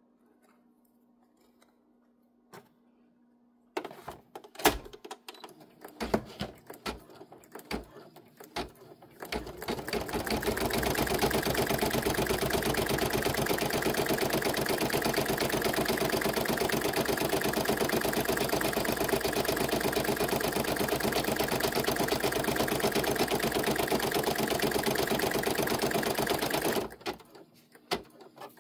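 Embroidery machine stitching at a fast, even rhythm, starting about ten seconds in and stopping abruptly near the end. Before it starts, a few seconds of scattered clicks and knocks.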